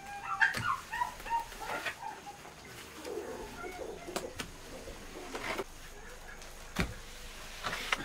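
Birds calling in short chirps and lower warbling notes, with a few sharp knocks; the loudest is a dull thump about seven seconds in.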